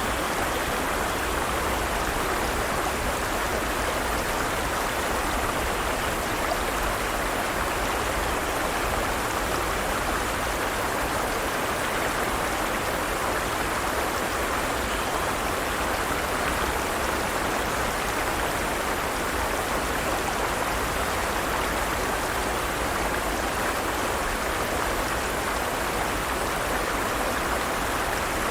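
Forest stream running over rocks: steady rushing and splashing water without pause.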